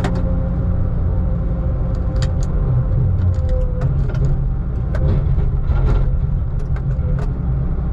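Heavy logging machine's diesel engine running steadily under load, heard from inside the cab, with a steady whine over it and scattered clanks and rattles.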